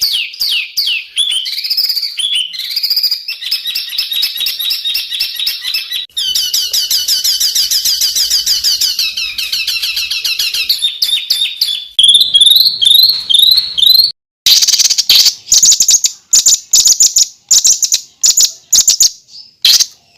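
Songbird tutor recordings (masteran) spliced together. First come quick descending chirps and long rapid trills. After a cut about fourteen seconds in, loud, sharp, high single calls follow, about three a second.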